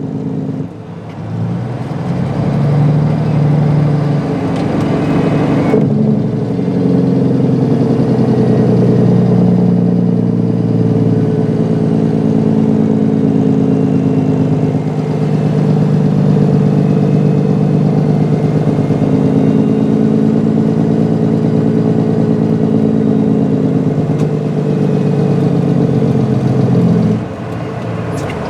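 Peterbilt 389 semi truck's diesel engine pulling a loaded grain trailer, heard from inside the cab. The engine note rises and falls as the truck drives and changes gear, with a sudden change about six seconds in and a drop in level near the end.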